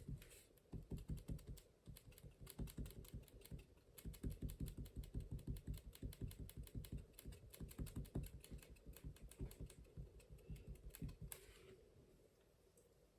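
Rapid light taps of stippling on watercolour paper, dotting texture into a painted sunflower's centre. About six taps a second, stopping near the end.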